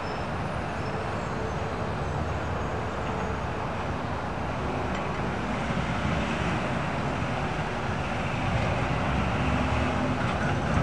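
Freight train passing at close range: the locomotive's engine and then tank cars rolling over the crossing make a steady rumble that grows a little louder toward the end.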